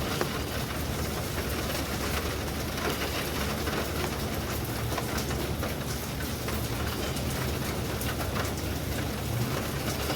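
Steady rain, with many small drop ticks, over a constant low rumble.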